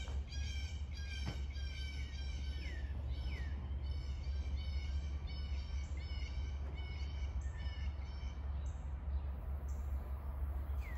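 A bird calling a quick run of repeated high notes, about three a second, with a few falling notes mixed in; the calling stops about eight and a half seconds in. A steady low rumble runs underneath.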